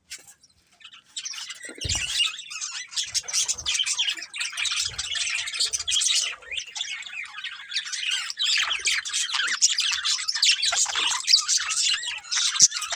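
Budgerigars chattering and chirping in a fast, continuous warble with sharp squawks mixed in, starting about a second in.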